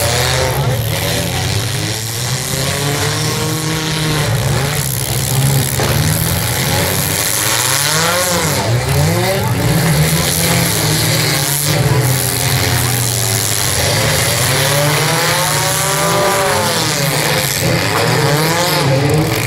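Several demolition-derby cars' engines revving and running hard, their pitch rising and falling again and again, with a few sudden crashes of cars colliding.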